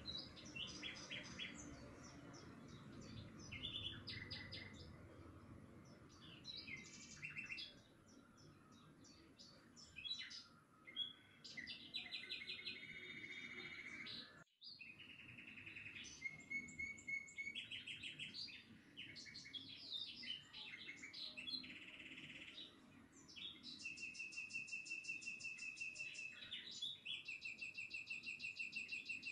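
Small birds chirping and trilling, with many short calls and rapid trills overlapping. The sound drops out briefly about halfway through.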